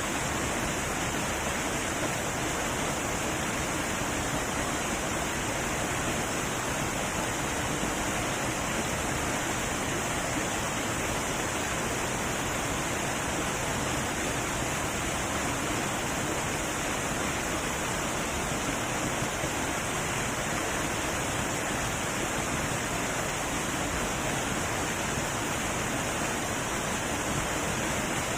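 Waterfall with a heavy flow of water crashing down, a steady, unbroken rush.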